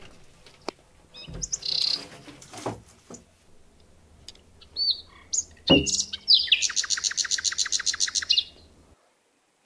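Small birds chirping, ending in a fast run of chirps, about ten a second, for some two seconds. A single loud thump comes about halfway through. The sound cuts off abruptly near the end.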